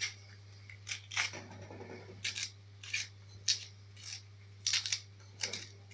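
A kitchen utensil making a series of short, sharp scraping strokes, about ten of them, unevenly spaced at one or two a second.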